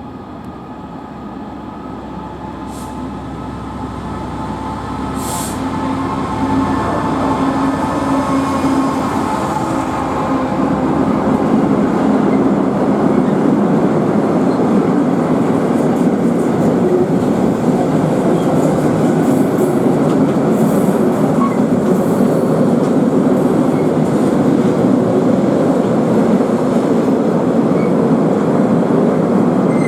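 Locomotive-hauled train approaching and passing, growing louder over about twelve seconds with an engine hum at first, then a steady rumble of wheels on rail as the train rolls by. Two brief hisses come a few seconds in.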